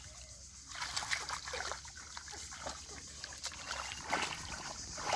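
Pond water splashing and trickling unevenly, starting about a second in, as hands grope and scoop through shallow water while fishing by hand.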